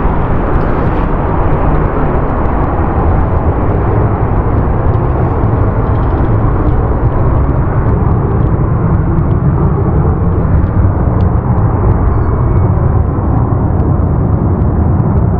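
Boeing 737-200's Pratt & Whitney JT8D turbofan engines, a steady, loud low rumble as the jet departs.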